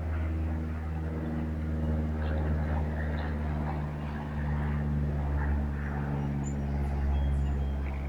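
An engine running steadily nearby, a low droning hum with several steady tones that swells slightly and falls back.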